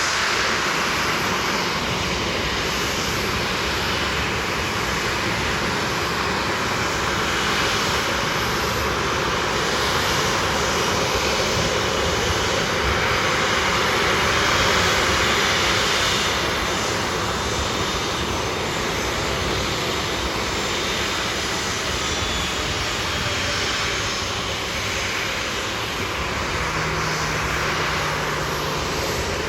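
Jet airliner engines running steadily at low taxi power: a wide, even rush with a faint high turbine whine, swelling a little midway.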